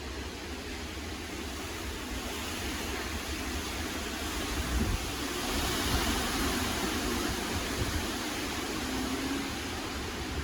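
Typhoon-force wind blowing in strong gusts, with low rumbling buffeting on the microphone; a gust builds to its strongest about five or six seconds in.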